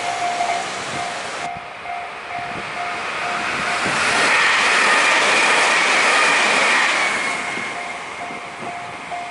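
An electric train passing at a level crossing, its rolling noise swelling to a peak in the middle and then easing off. The crossing's warning bell rings a steady clanging tone, a few strokes a second, heard at the start and again near the end.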